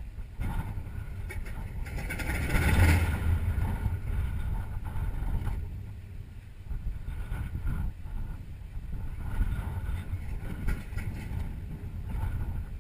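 TBM Avenger's Wright R-2600 fourteen-cylinder radial engine running with a low, uneven rumble. It swells louder about two to three seconds in.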